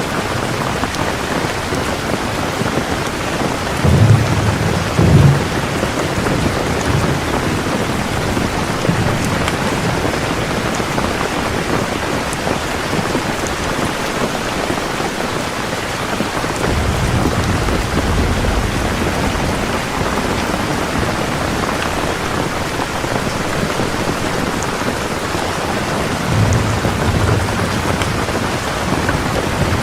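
Heavy rain falling in a steady hiss, with low thunder rumbling: two loud peaks about four and five seconds in, and softer rolls about midway and near the end.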